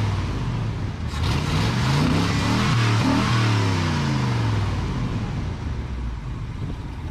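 A motor vehicle's engine revving, its pitch rising and falling twice, then fading away near the end.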